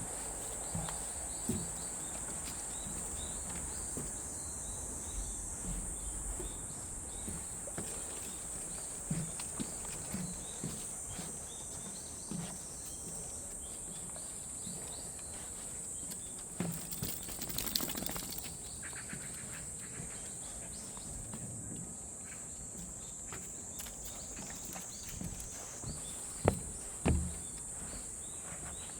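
Cicadas buzzing in a steady, high-pitched chorus, with birds chirping and soft footsteps on a walk. Two louder knocks come near the end.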